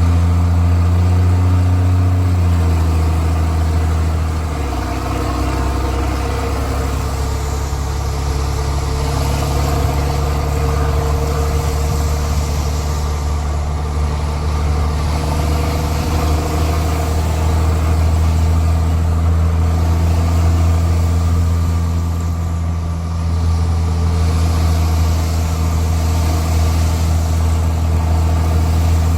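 Straight-piped Cummins C8.3 inline-six turbodiesel of a 1995 Carpenter school bus running under way with a loud, throaty exhaust note. The engine note drops a few seconds in, then holds fairly steady.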